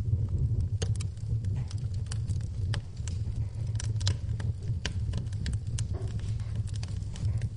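Wood fire burning in a fireplace, crackling with irregular sharp pops and snaps over the low, steady rumble of the flames.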